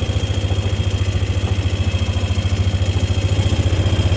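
Engine of a slow-moving vehicle running steadily at low speed, a low, even drone with a fast regular pulse.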